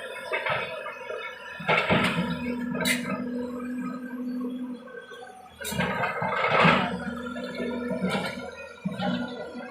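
JCB loader's diesel engine running with a steady hum, while loads of stone crash and clatter into a truck's bed several times.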